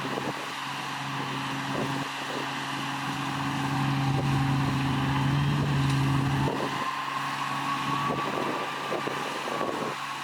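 Diesel engine of heavy earthmoving machinery running steadily. About two-thirds of the way through, the low engine note drops away and a higher whine carries on.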